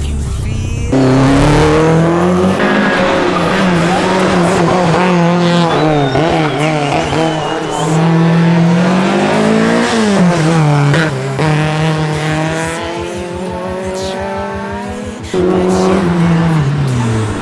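Rally cars driven flat out past the spectators: engines revving high and dropping through gear changes and braking, with tyres squealing through the corners. The sound switches abruptly to a different car about a second in and again near the end.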